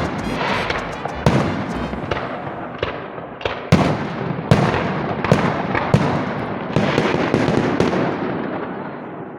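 Fireworks salute going off: about a dozen sharp bangs at irregular intervals with crackling in between, fading away near the end.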